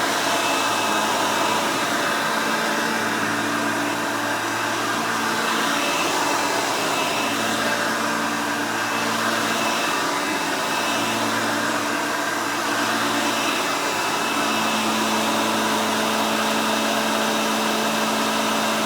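Hoover Elite upright vacuum cleaner running steadily, with a motor whine over a rush of air and the spinning brush roll; pretty loud.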